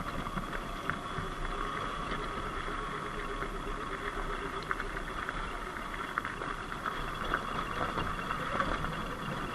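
Surron X Light Bee electric dirt bike's motor whining steadily while riding, with scattered clicks and crunches over the top.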